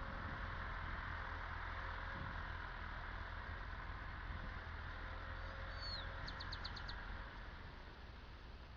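Massey Ferguson 275 tractor's diesel engine running steadily, easing off slightly near the end. A bird gives a short descending call about six seconds in, followed by a quick trill.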